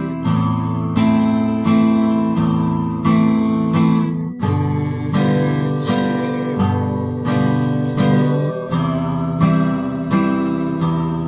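Acoustic guitar strummed in a steady 3/4 waltz rhythm: a bass note on the low strings, then two strums on the higher strings, repeating with each bar's chord.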